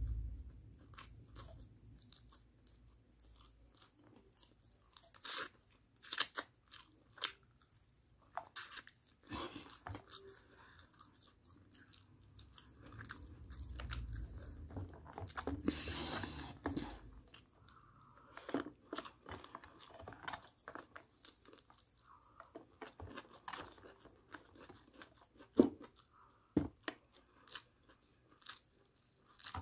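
Close-up chewing and crunching of barbecued chicken and rice eaten by hand: irregular small clicks and crunches, with one sharper click about two-thirds of the way through.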